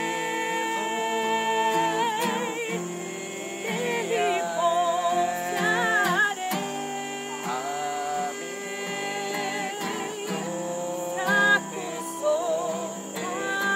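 Voices singing a slow song with held, wavering notes, accompanied by an acoustic guitar.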